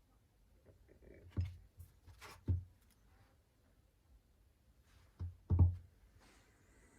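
A few short, dull knocks of objects being handled and set down, ending with a double knock near the end that is the loudest.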